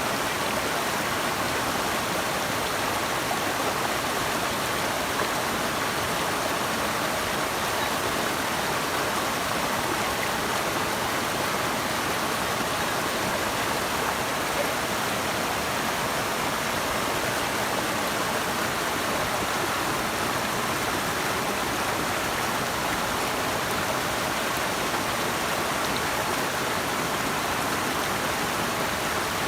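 Rushing water of a river or waterfall, a steady, even rush with no breaks.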